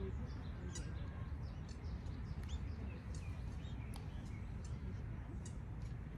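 Small birds chirping, short calls scattered throughout, over a steady low rumble.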